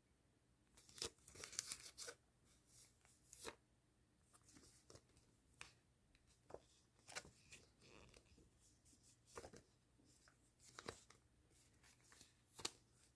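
Faint paper and plastic stationery packaging being torn open and handled: a scatter of short rustles, tears and light clicks.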